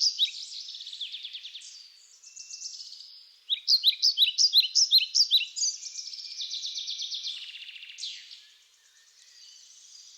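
Birdsong: phrases of quick, high, slurred chirps, about five a second, alternating with faster trills, with short pauses between phrases.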